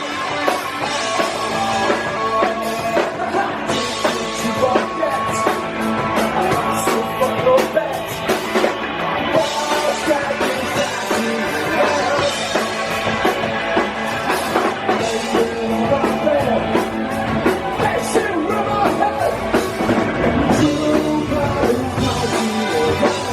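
Live punk rock band playing, with electric guitar and drum kit, recorded from the audience.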